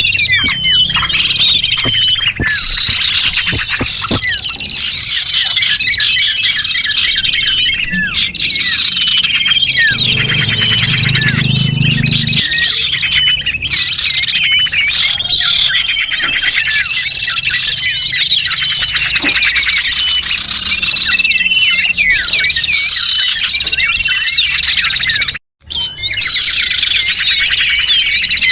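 Bird-lure recording of many small birds chirping and twittering at once in a dense, busy chorus of short high calls and trills. The sound cuts out suddenly for a moment about 25 seconds in, then carries on.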